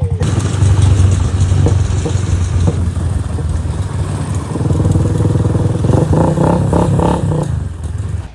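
Motorbike engine running while riding, with a steady low pulsing note, cutting off abruptly at the end.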